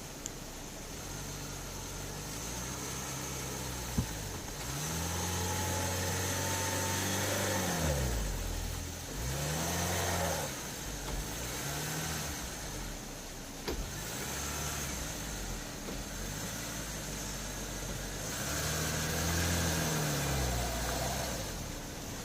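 Niva 4x4's engine revved up and down about five times in a row, its note rising and falling with each push of the throttle, with a couple of sharp knocks along the way.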